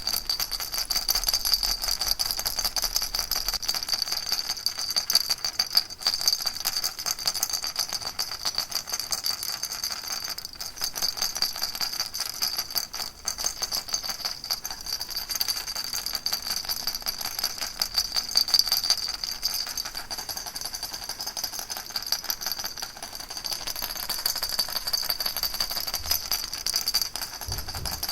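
Baby rattle shaken continuously: a dense, steady rattling with a bright, jingly edge and no pauses.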